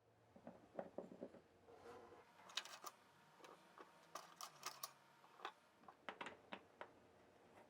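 Faint, irregular clicks and light taps of hand work on a guitar: the bridge and its clamping fasteners being handled and set in place for gluing.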